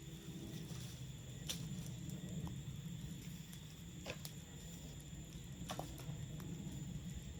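Wood campfire burning, with a steady low rustle of the flames and sharp crackles and pops every second or two.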